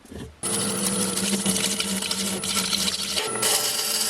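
A woodworking power tool starts about half a second in and runs steadily: a steady motor hum under a dense hiss of the tool working wood.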